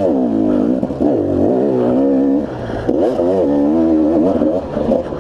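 KTM two-stroke enduro motorcycle engine under way, the revs climbing and dropping again and again as the throttle is opened and rolled off.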